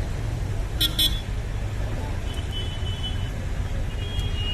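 Road traffic running steadily, with vehicle horns honking: two short beeps about a second in, then longer horn tones around the middle and near the end.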